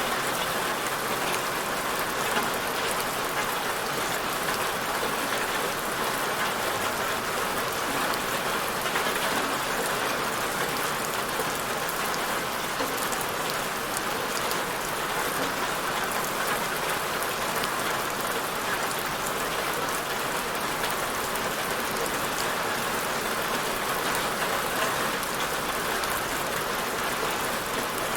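Steady rain falling on a surface, a dense even hiss of many small drop patters.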